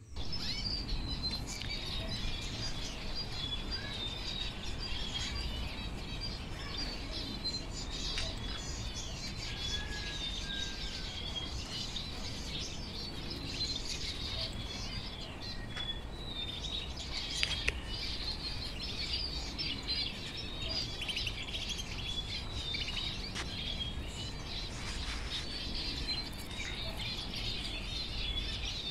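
Many small birds chirping and twittering continuously in quick high notes, over a steady low rumble. Two brief sharp clicks stand out about halfway through.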